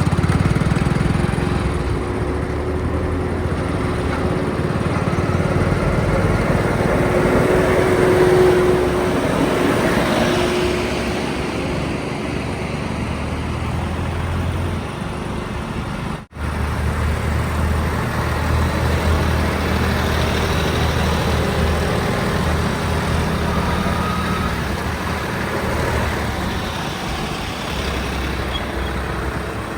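Heavy diesel engine running steadily under load, with a sudden cut about halfway through where one recording gives way to another of the same kind.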